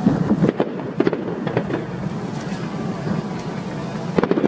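Fireworks bursting in the air: several sharp bangs in the first second and a half, then a quick cluster of bangs near the end, over a steady background din.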